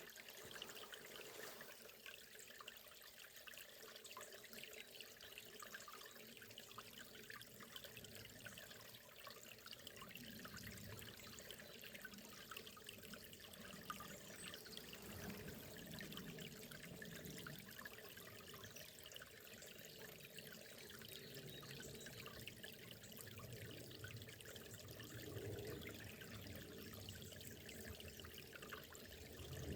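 Faint, steady trickling of a small forest river. Lower gurgles come and go from about a quarter of the way in.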